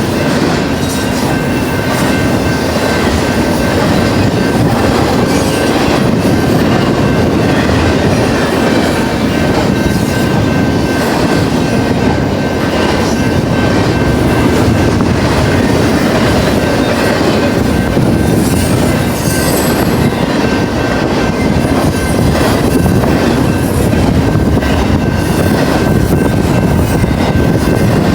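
A fast BNSF intermodal freight train rolling past close by: a loud, steady rumble of wheels on rail, with a thin, steady wheel squeal riding over it.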